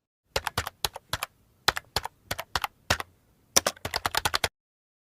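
A quick, irregular run of about twenty sharp clicks, like typing, that stops abruptly about half a second before the end.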